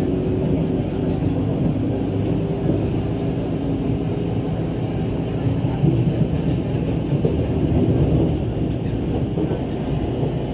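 SMRT C651 metro train running at speed, heard from inside the carriage: steady running noise of wheels on rail.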